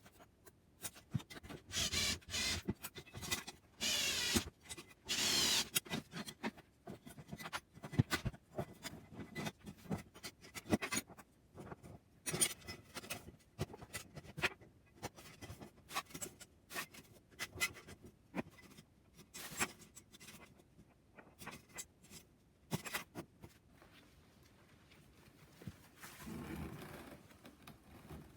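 Hand work on small parts: scattered clicks and taps, with a few longer scrapes in the first seconds and a softer rub near the end.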